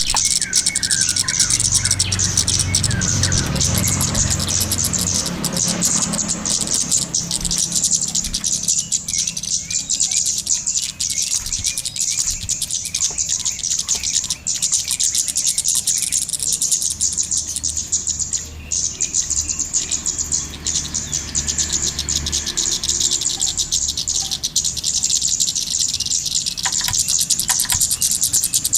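A recording of the small bird known as kemade or cici geni, used as a lure call. It gives fast, unbroken high chirping and ticking throughout, with a low hum under it near the start and again later.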